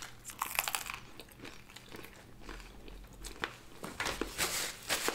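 Close-miked biting and chewing of a crisp fried vegetable samosa: crackly crunches of the pastry in clusters, about half a second in and again, denser, around four seconds in.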